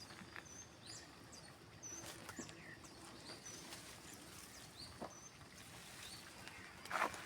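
Small birds chirping: short high chirps and quick sliding notes repeated about once a second. A few brief scrapes and knocks, the loudest near the end, come from soil being worked around a freshly planted shrub.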